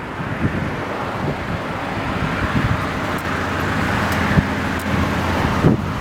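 Highway traffic: a vehicle's tyre and engine noise swells to a peak about four seconds in, over a steady low hum. Sandstorm wind buffets the microphone in irregular low thumps.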